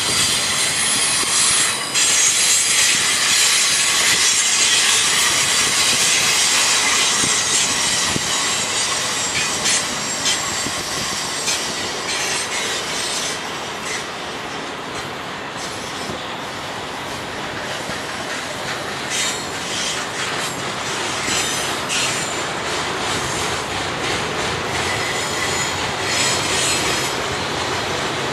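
Freight cars of a container train rolling past on steel wheels, with high-pitched wheel squeal against the rail and scattered clacks from the rail joints.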